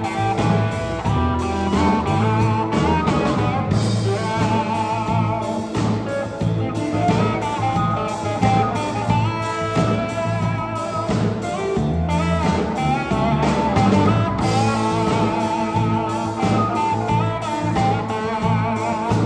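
Sacred steel gospel band playing live: a steel guitar plays gliding, wavering melody lines over bass and a steady drum beat.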